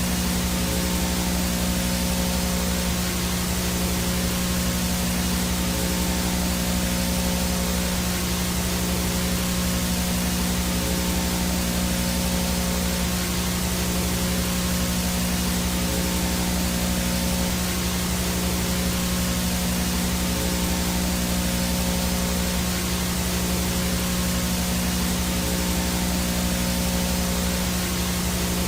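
Analog VHS static from a no-signal tape: a steady broad hiss with a low electrical hum and buzz under it, unchanging throughout.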